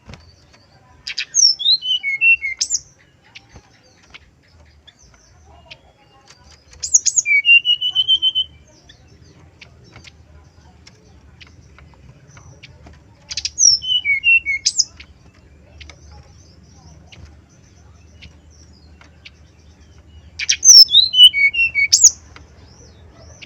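Brown-chested jungle flycatcher singing: four short phrases of quick, high whistled notes with sweeping pitch, each about a second and a half long, separated by pauses of several seconds.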